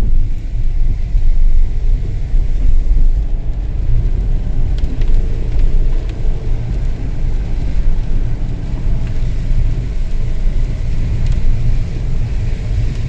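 Mercedes car being driven, heard from inside the cabin: a steady low rumble of engine and road noise.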